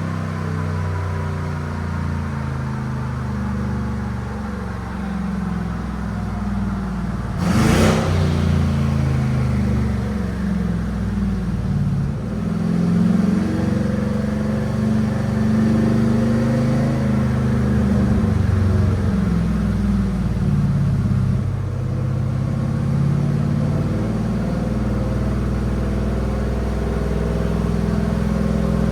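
5.3-litre V8 of a GMC Sierra pickup on headers running steadily under light load, with a faint falling whine near the start. A brief loud rush of noise comes about seven seconds in.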